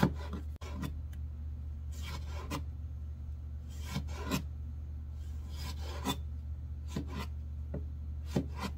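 Kitchen knife cutting bell peppers on a cutting board: a run of short, irregular slicing strokes, about one or two a second, over a steady low hum.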